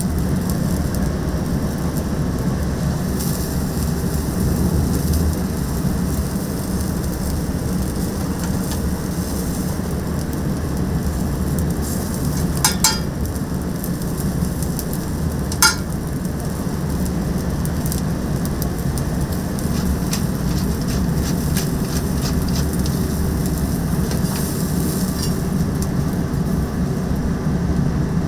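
Chicken yakitori skewers sizzling and crackling over a charcoal grill, with a steady low hum under it. Two light clinks sound about halfway through.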